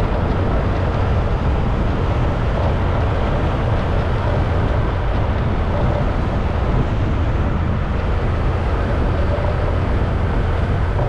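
A motorcycle riding along the road, with its engine and wind rushing over the microphone making one steady low rumble that does not let up.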